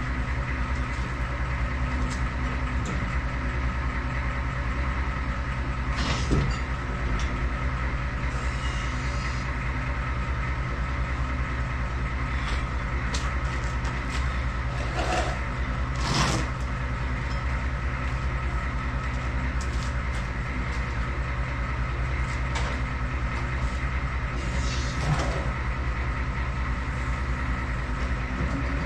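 A steady machine hum holding several pitches at once, with a few short knocks about 6, 15, 16 and 25 seconds in.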